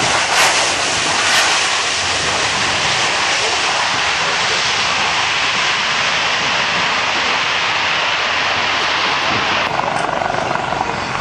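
Loud, steady aircraft engine noise, a dense even rush that thins in its upper part about ten seconds in.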